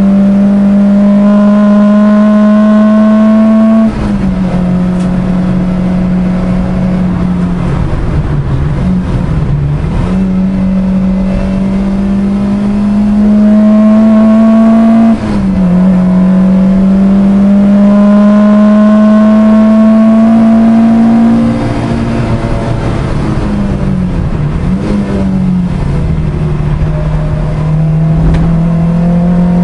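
A track car's engine heard from inside the cabin, pulling hard with its pitch climbing steadily under acceleration. The pitch falls sharply about four seconds in and again about fifteen seconds in as it changes up. Around eight seconds in and again in the twenties it falls away with quick up-and-down wobbles as the car slows for corners.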